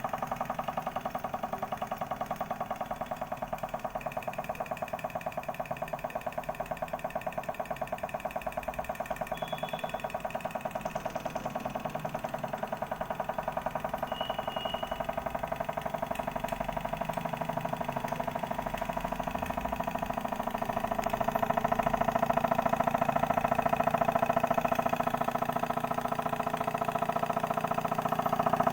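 Small model Stirling engine running, a rapid, even mechanical clatter that grows louder about two-thirds of the way through.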